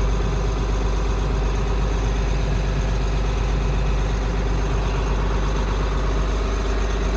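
John Deere 8450 tractor's diesel engine idling steadily, heard from inside the cab.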